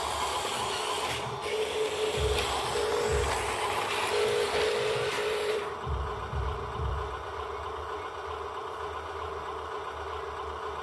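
Heavy vehicle machinery running with a steady whine over a hiss and a few low knocks. The hiss and whine drop off about six seconds in.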